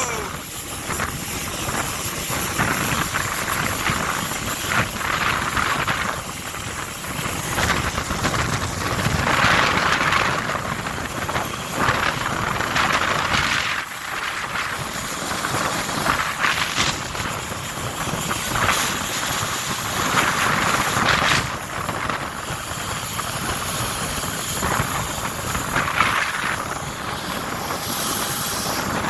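Tornado wind rushing over the microphone, a loud steady roar that swells in gusts every few seconds.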